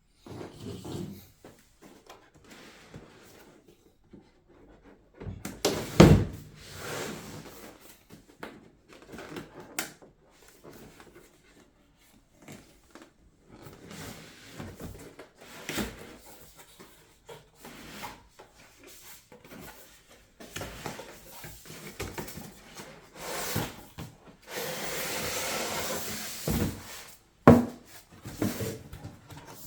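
Unboxing handling noise: a cardboard box and its packaging rubbed, slid and set down, with irregular knocks, the loudest about six seconds in. Near the end comes a steady scraping rustle lasting about two seconds.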